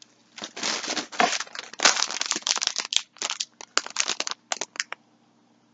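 Packaging rustling and crinkling as yarn skeins are handled: a run of irregular rustles lasting about four and a half seconds, then stopping.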